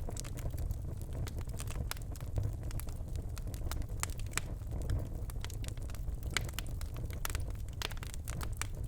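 Birchwood fire burning in a fireplace, crackling with frequent sharp, irregular pops over a steady low rumble of the flames.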